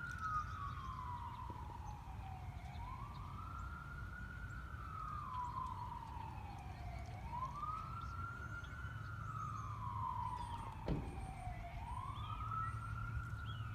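Distant emergency vehicle siren wailing: a single tone that rises quickly and falls more slowly, repeating about every four seconds, over a low background rumble. A brief sharp downward sweep cuts in about eleven seconds in.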